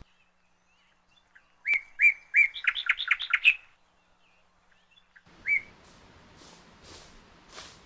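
A songbird calling: a few clear notes that quicken into a rapid run, then one more note about two seconds later. Faint outdoor background follows.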